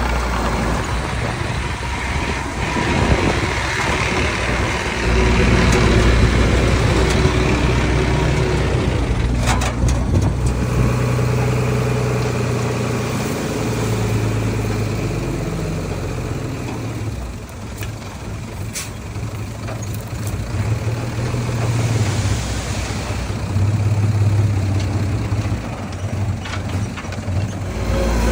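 Diesel engine of heavy earthmoving machinery running under changing load, its pitch rising and falling, with a few short sharp noises about a third and two thirds of the way through.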